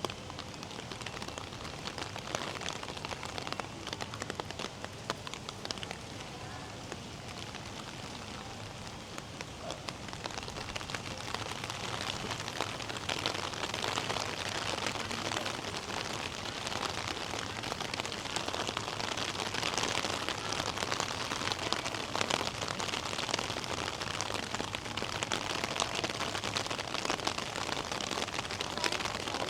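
Rain falling, a dense steady hiss of many small drop ticks that grows louder from about ten seconds in.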